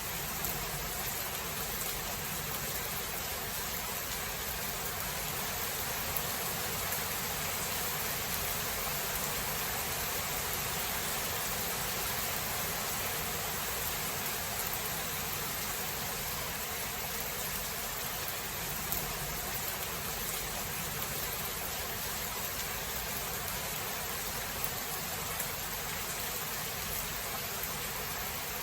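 Steady rain falling, an even hiss with a few slightly louder drop sounds here and there.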